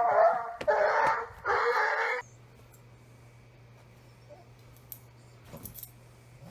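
A dog barking three times in quick succession, each bark about half a second long.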